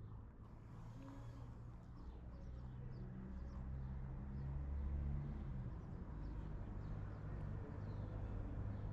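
Outdoor ambience: faint, scattered bird chirps over a low steady hum that swells a little midway.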